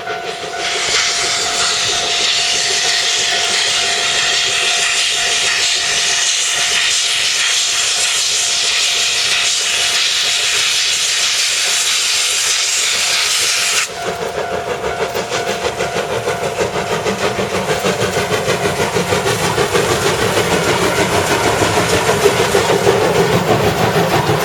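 C57-class steam locomotive venting steam in a loud, steady hiss that cuts off suddenly about 14 seconds in. After that the train is heard running with a fast rhythmic beat that grows louder as it comes closer.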